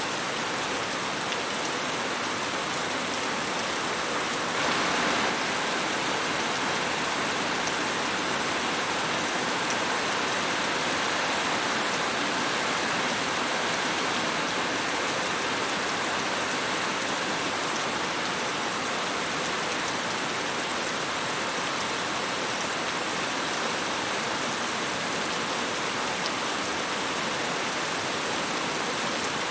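Steady rain falling on a surface, an even hiss with no rhythm, swelling slightly for a moment about five seconds in.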